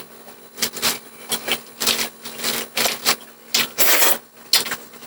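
Close-up eating sounds: an irregular run of short, sharp clicking and smacking noises, several a second, as the last bite of beef pares is eaten.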